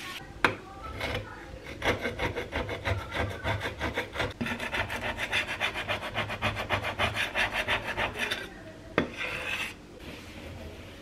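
Quick, even back-and-forth rubbing or scraping strokes, about six a second, for roughly six seconds, with a few single knocks before and after.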